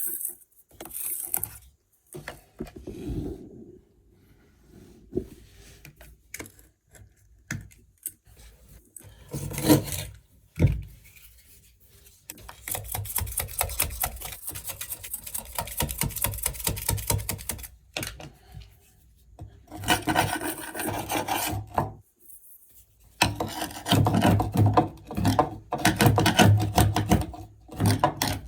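A blade scraper scraping stubborn old silicone sealant off a shower tray, in quick rasping strokes that come in several spells with short pauses, the longest spells in the second half.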